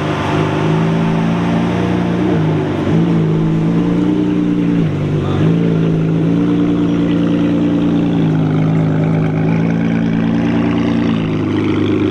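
A car engine running, its pitch stepping up and down every few seconds.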